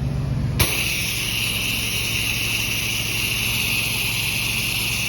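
Pressure washer engine running steadily; a little over half a second in there is a click, and a steady spray hiss starts over the engine hum as the gun fires a soap-and-bleach mix through an X-Jet chemical nozzle.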